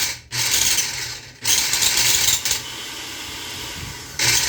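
Philips Walita food processor's motor and gear drive switched on and off in several short bursts, with an ugly loud grinding racket, then running a little more quietly before a last loud burst near the end. The noise comes from its gears, which are dry of grease.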